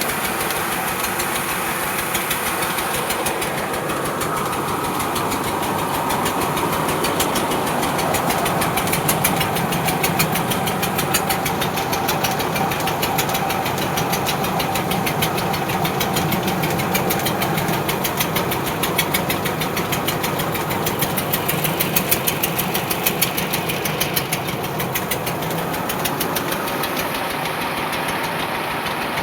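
Tractor diesel engine running steadily with a rapid knocking beat, getting somewhat louder through the middle stretch.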